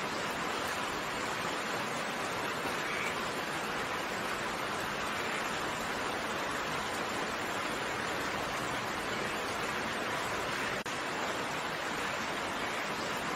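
Steady rain: an even hiss of many drops with no single drop standing out, broken only by a momentary dip in level about eleven seconds in.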